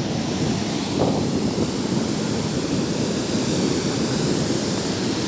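Sea surf washing steadily against the shore, with wind buffeting the microphone in low gusts, one about a second in.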